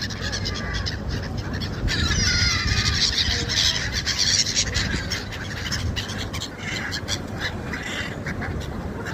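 A flock of seagulls calling, several cries overlapping, busiest in the first half, over a steady low rumble.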